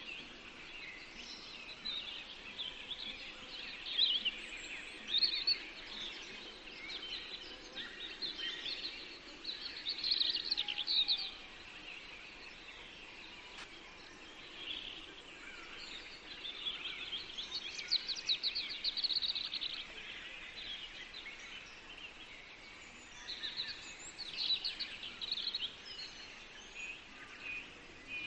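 Several songbirds singing at once in a forest, short chirps overlapping with fast trills, over a steady background hiss.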